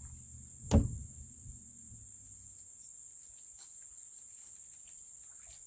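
A single sharp knock of a canoe paddle against the hull less than a second in, with a low ringing that dies away over the next couple of seconds, over a steady high hiss of insects.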